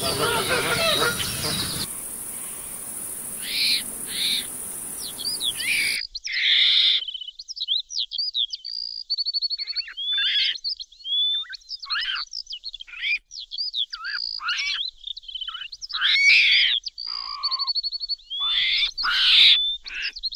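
Birds chirping, with many short, varied calls, sliding notes and fast rattling trills. Over the first few seconds there is a steady hiss with only a couple of chirps; about six seconds in the hiss stops suddenly and the calls carry on cleanly.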